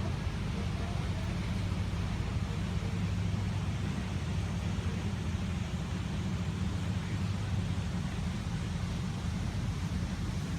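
Passenger boat's engine running with a steady low drone, with an even hiss of wind and water over it.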